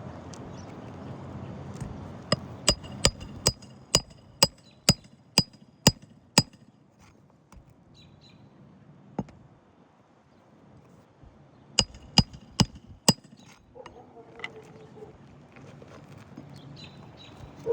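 Hammer driving roofing nails into a replacement shingle: a run of about ten sharp strikes, roughly two a second, then after a pause four more.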